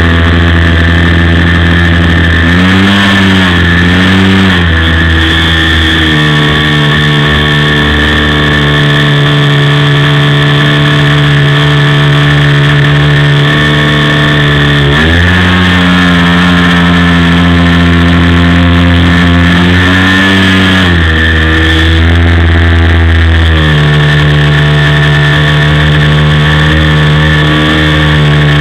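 OS FS-56 four-stroke glow engine of a Great Planes Cherokee RC plane running steadily. Its pitch wavers briefly near the start, drops about six seconds in, rises again about fifteen seconds in, and drops around twenty-one seconds as the throttle is changed.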